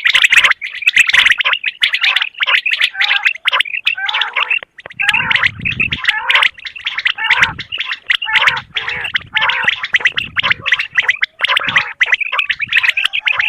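Common quail calls: a rapid, rasping chatter of quick notes in bursts with brief breaks.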